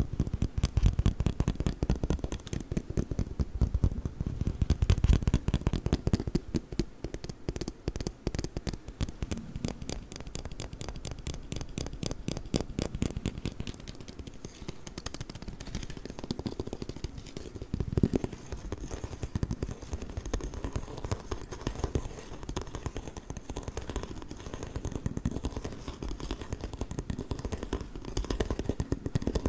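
Rapid ASMR tapping and scratching on a folding ruler: a dense stream of quick clicks and scrapes, loudest over the first several seconds.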